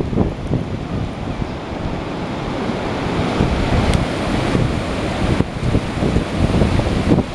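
Open Pacific Ocean surf breaking and rushing in a steady wash, with wind buffeting the microphone.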